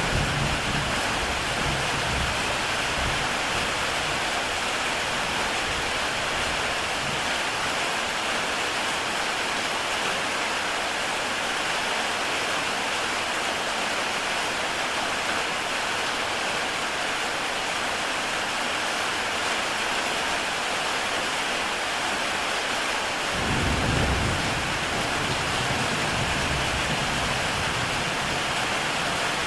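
Heavy rain falling steadily on a tile roof, with a low rumble of thunder in the first moments and another about three-quarters of the way through.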